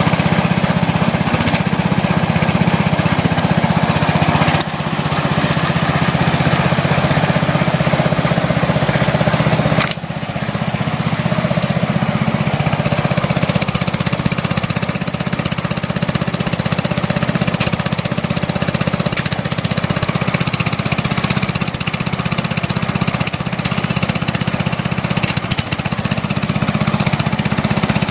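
A 12.5 hp Briggs & Stratton engine on a riding lawn mower runs steadily while the mower is driven along in second gear. The loudness dips briefly twice, about five and ten seconds in. The engine was rebuilt with parts from a donor engine, and the owner says it runs great.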